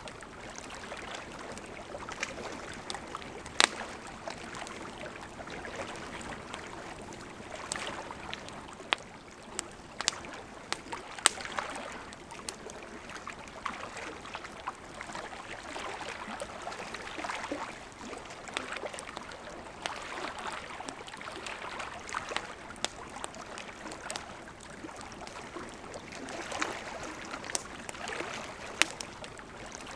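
Wood fire burning, a steady hiss and rustle of flames with irregular sharp crackles and pops, the loudest a few seconds in and about eleven seconds in.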